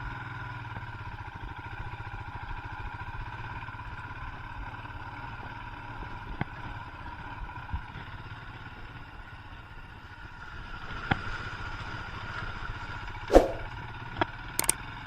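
Royal Enfield Himalayan's single-cylinder engine running steadily at low revs, with a few sharp knocks and clatters, the loudest about two seconds before the end.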